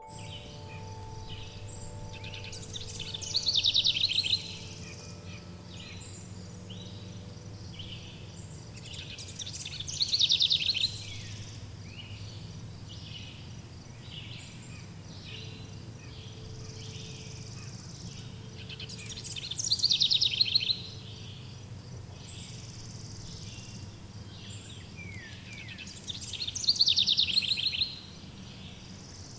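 Birds singing in a chorus of light chirps, with one songbird's loud, rapid, downward trill repeated four times, about every seven seconds, over a steady low rumble. Wind-chime tones ring out and fade in the first few seconds.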